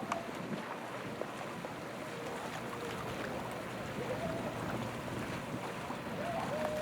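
Boat motor running steadily in the channel, with wind on the microphone.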